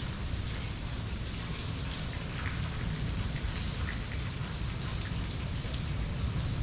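Steady rain falling and pattering on surfaces, with scattered individual drop hits over a continuous low rumble.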